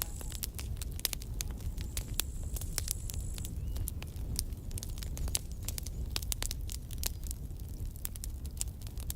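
Campfire burning: wood crackling with many sharp pops over a low steady rumble of flame. A high thin steady tone sounds with it and stops about three and a half seconds in.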